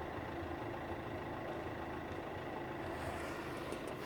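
Steady low engine hum of a running vehicle, even throughout with no changes.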